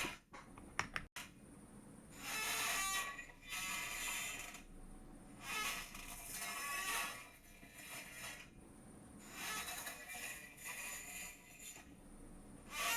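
Chair creaking over and over in irregular swells, with a few sharp clicks about a second in.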